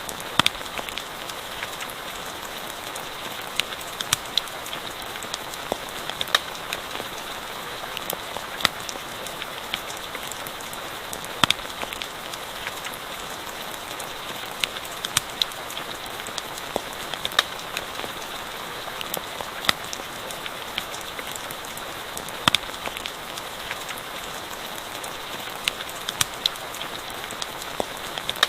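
Steady rain hissing, with a campfire crackling over it: short sharp pops come at irregular moments.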